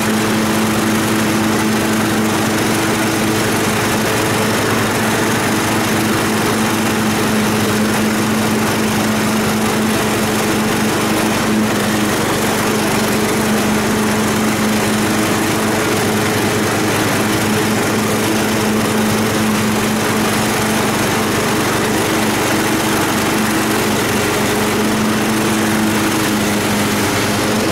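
Yard Machines riding lawn mower's small engine running at a steady speed while mowing grass: an unbroken, even engine hum with no change in pitch.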